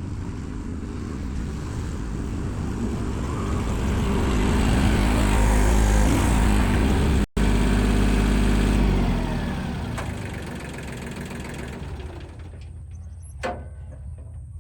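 Engine of an earthmoving machine working, getting louder toward the middle, then fading away over the last few seconds. A single short knock comes near the end.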